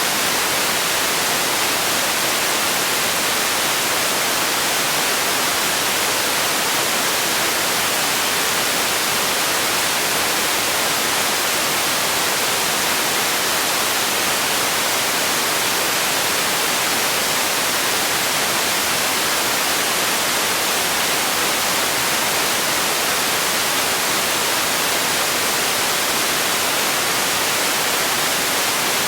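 Steady white noise: an even, unchanging hiss, strongest in the highs and thin in the lows.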